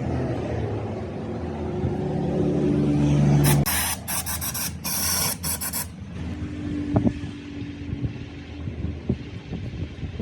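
Motorcycle engine running, its note getting louder for the first few seconds. Then a hiss in several bursts, like a spray, for about two and a half seconds, before the engine goes back to a steady idle with a few light clicks.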